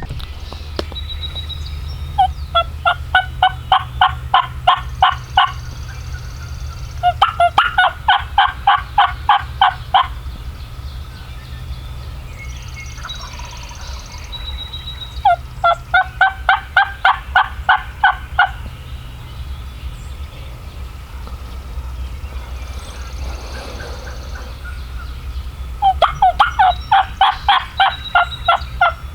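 Wild turkey yelping: four series of about a dozen evenly spaced notes, about four a second, each run lasting about three seconds, over a steady low rumble.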